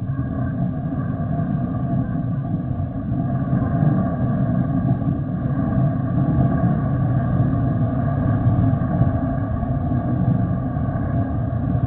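Jet airliner engines running at high power, a steady deep rumble with a faint whine over it that swells a little a few seconds in.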